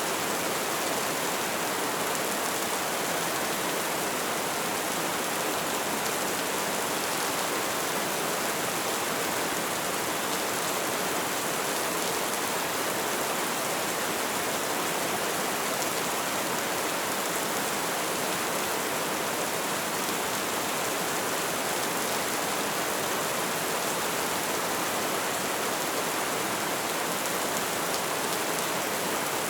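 Light rain falling steadily, an even hiss of drops on a surface that does not change.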